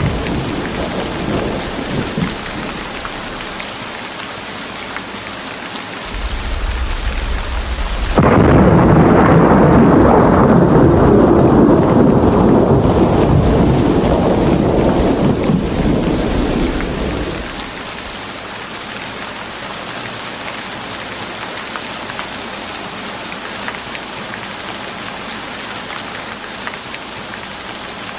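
Steady rain with a peal of thunder. A low rumble builds about six seconds in, breaks into a sudden loud clap around eight seconds, and rolls away over the next nine seconds or so, leaving the rain alone.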